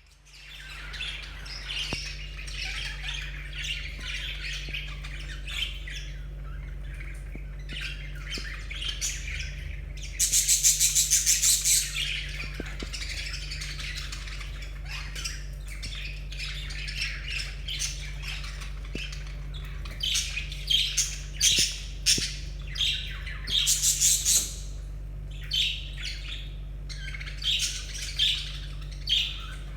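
Budgerigars chattering and warbling without pause, broken by loud, harsh, rapid squawks about ten seconds in and by a run of sharp, loud calls in the last third.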